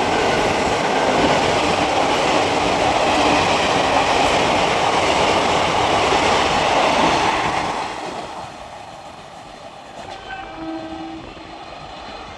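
Express train running through the station without stopping: a loud, steady rush of wheels and coaches that falls away about eight seconds in as the train clears the platform, leaving quieter station noise.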